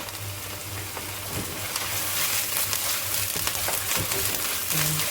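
Ginger garlic paste sizzling in hot ghee with onion in a wok, with scattered crackles. The sizzle grows louder about two seconds in.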